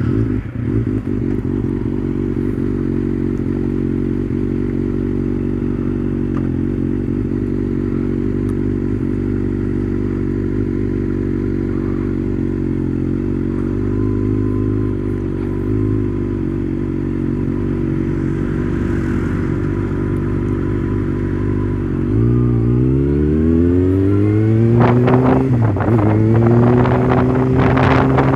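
Tuned Kawasaki ZX-6R inline-four engine running at a steady speed while riding, then rising in pitch as it accelerates about three-quarters of the way through, with a brief drop at a gear change before it climbs again.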